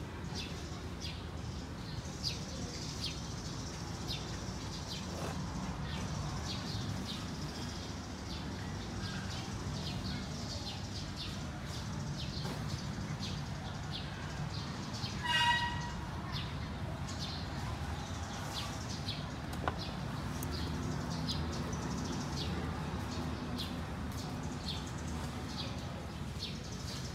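Birds chirping in short, irregular high notes over a steady low rumble. About fifteen seconds in, one louder short call stands out.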